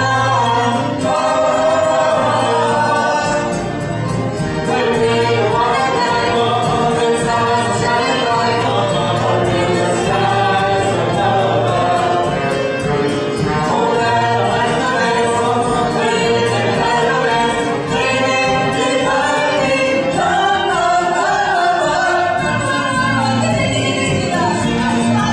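Cast of a stage musical singing together in chorus over live band accompaniment with a steady beat.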